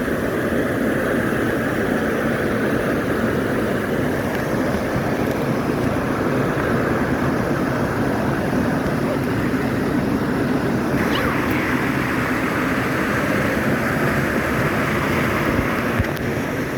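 Steady rushing of water from a stream or waterfall, with no pitch or rhythm, brightening slightly about eleven seconds in.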